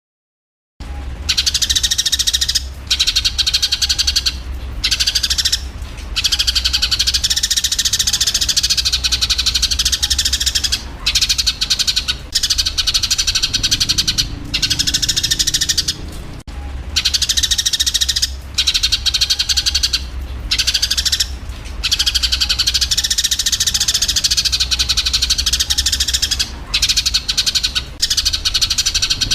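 Eurasian tree sparrows in a dense, rapid, high-pitched chattering of fight calls, starting about a second in and running in long bursts with short breaks, over a steady low hum.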